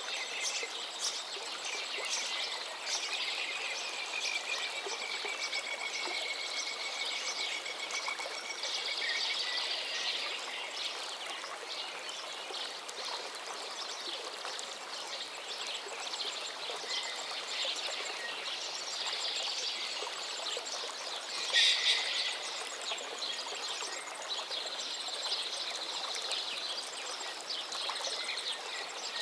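Birds calling and singing: many short high chirps and song phrases, with one drawn-out whistle in the first third and one louder call a little past two-thirds through, over a steady outdoor hiss.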